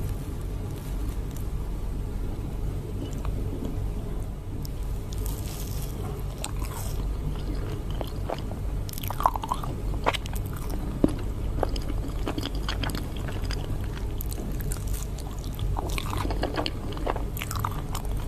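Close-miked eating: a person biting and chewing, with scattered crunchy crackles and clicks over a steady low hum.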